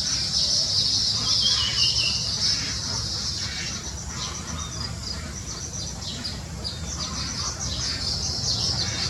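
Small birds chirping rapidly and continuously in high, thin notes, with a short falling trill about a second and a half in. The chirping is busiest at the start and swells again near the end.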